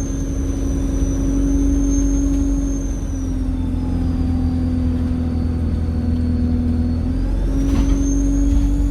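Alexander Dennis Enviro 200 bus running, with a loud high turbocharger whistle over the diesel engine's rumble and a steady lower hum. The whistle's pitch drops about three seconds in and climbs again near the end.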